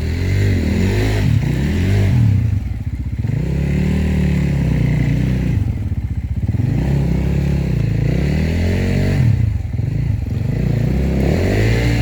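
Enduro motorcycle engine revving up and down over and over, its pitch rising and falling about every two seconds.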